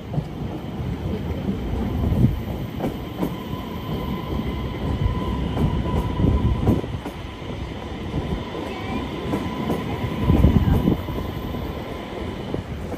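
Electric passenger train rolling past on the tracks below, a steady rumble of wheels on rail. A faint steady whine runs through the middle of the pass.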